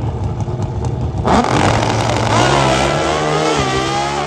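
Two naturally aspirated Pro Stock drag-racing motorcycles running at the starting line, then launching about a second in with a sudden loud burst. Their engines rev up hard, the pitch climbing and dropping back at each gear change as the bikes pull away.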